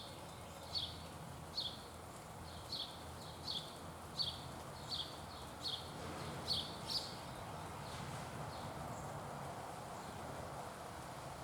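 A run of short, sharp chip calls, about one a second, repeated steadily and ending about seven seconds in with a couple of fainter ones after, over steady outdoor background noise.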